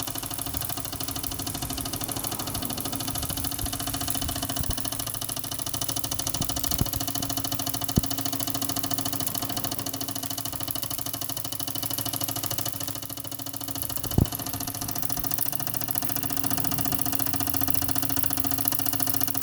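Fleischmann 120/1 toy oscillating steam engine running fast and steady: a rapid, even chuffing with a high hiss. Two sharp clicks come about eight and fourteen seconds in.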